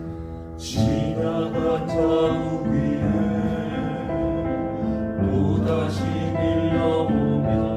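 Small mixed vocal ensemble singing in close harmony with piano accompaniment, entering together about a second in with a breath and holding sustained chords.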